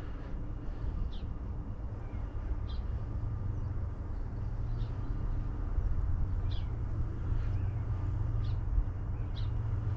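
A bird giving short, high chirps, about one a second, over a steady low rumble.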